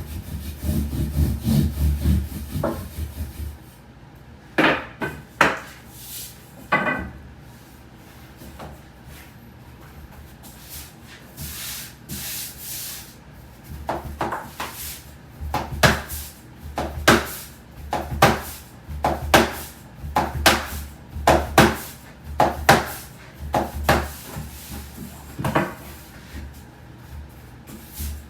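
Wooden rolling pins working soba dough on a wooden board. There is a low rubbing rumble of rolling strokes, then sharp wooden knocks and clicks, about one a second in the second half.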